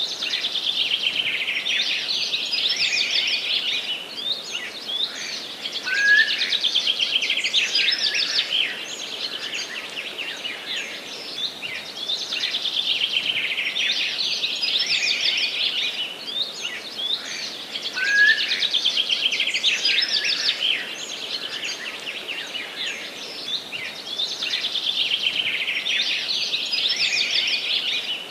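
Forest birdsong: one songbird repeats a long, fast, high-pitched trilling song of about three to four seconds, roughly every six seconds. A short rising note from another bird comes in twice.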